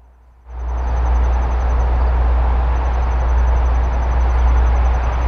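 Norfolk Southern Roadrailer freight train rolling past with a steady heavy rumble, cutting in suddenly about half a second in.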